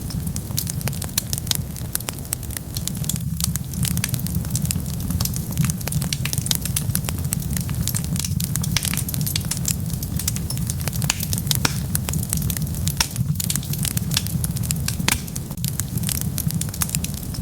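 Wood fire burning, with a steady low rumble under many irregular crackles and sharp pops.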